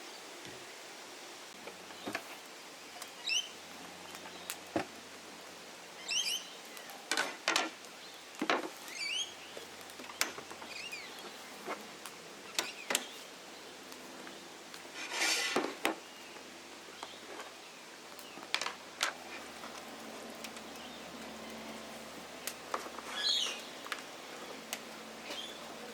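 Birds chirping in short, scattered calls over a steady outdoor background, mixed with intermittent sharp clicks and knocks. A brief scraping rustle comes about halfway through.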